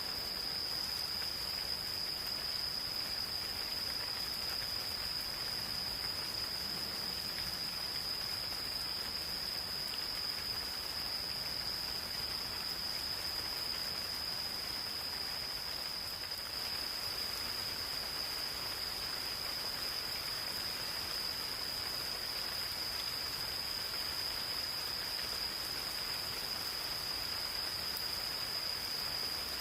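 Gentle rain falling in a forest, an even patter, with insects calling in one steady high-pitched trill that holds on without a break.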